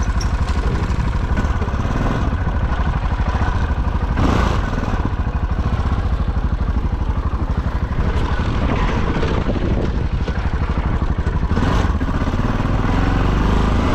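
Off-road motorcycle engine running steadily at low revs close to the microphone, its firing pulses rapid and even. A few brief rushes of noise come over it.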